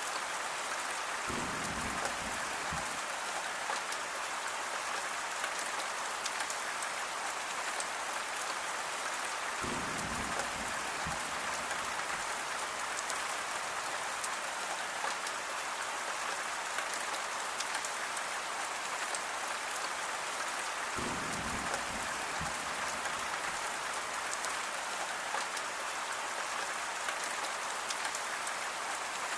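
Steady, even rainfall. Three short low rumbles sit under the rain: one near the start, one about ten seconds in, and one about twenty-one seconds in.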